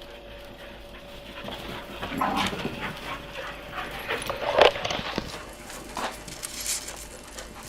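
Dogs panting, with irregular short rustles and clicks.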